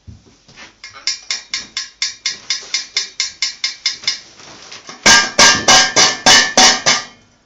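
Ring-necked parakeet rapidly knocking a dish with its beak, about six ringing clacks a second. A lighter run of knocks comes first, then a louder run about five seconds in.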